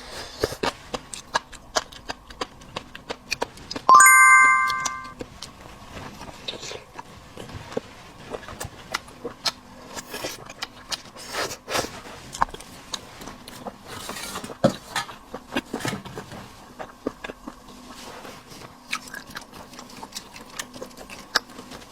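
Scattered small clicks and taps of eating and handling seafood and tableware. About four seconds in, one bright ringing chime fades out over about a second.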